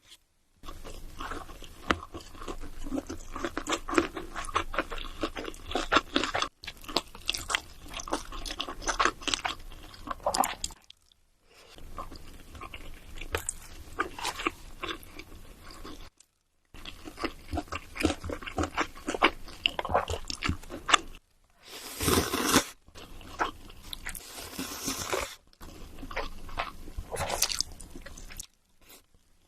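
Close-miked eating: crunchy food bitten and chewed with dense crackling crunches, in several short stretches broken by brief silences.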